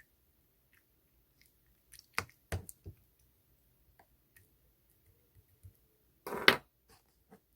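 Clear slime being pressed and squeezed by hand, giving short wet clicks and pops: a quick cluster of three about two seconds in, scattered small ticks, and a louder, longer crackling squish near the end.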